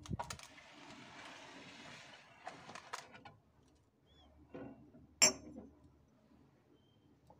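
Household items being handled during pantry-cupboard cleaning: a thump, about two seconds of soft rustling, then scattered clicks and a sharp knock about five seconds in.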